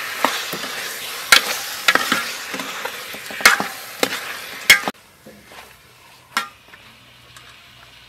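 Fish pieces sizzling in hot oil and pounded spice paste in a large aluminium pot as they are stirred with a metal ladle that clanks against the pot several times. The sizzling cuts off about five seconds in, leaving a quiet background with one more knock.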